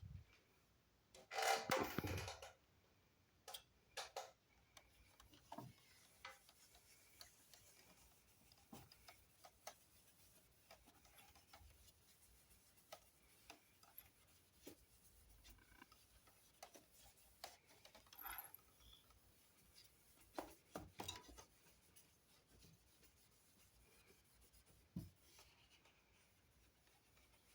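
Faint, scattered rubbing and small clicks of hands working on the parts of a dismantled wall-mounted air conditioner, with a louder stretch of rubbing about a second and a half in.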